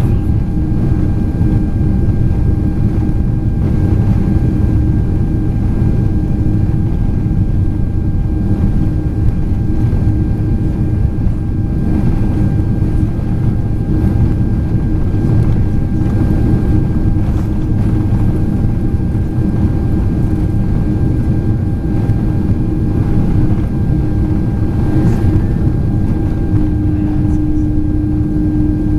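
Steady cabin noise inside a Boeing 767-400ER airliner in flight: a low rumble of engines and rushing air with a steady droning hum, which grows stronger near the end.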